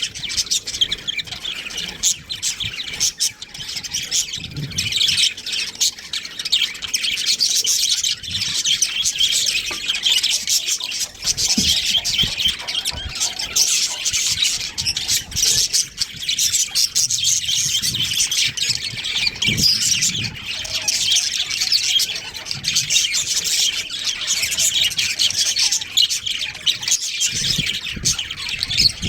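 Budgerigars chattering and chirping nonstop, with many quick overlapping calls and short squawks.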